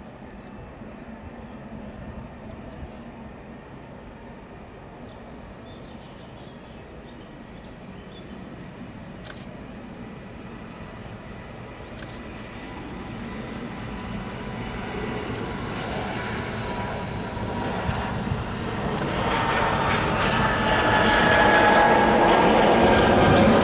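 Airbus A220-100 jet airliner taking off, the engines at takeoff power and growing steadily louder as it approaches, with a whine that slides slowly down in pitch in the last few seconds.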